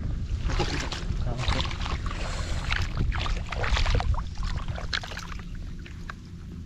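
Irregular splashing and sloshing of shallow water, busiest over the first four seconds and dying down after.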